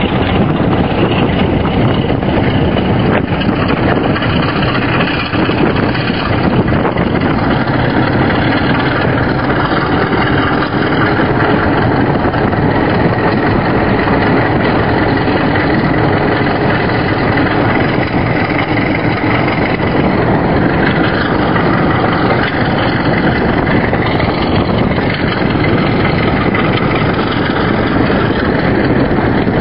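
Class 33 diesel locomotive's Sulzer eight-cylinder engine running at a steady, even note.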